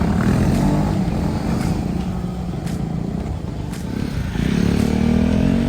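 Motor vehicle engine running steadily, then revving up briefly about four and a half seconds in.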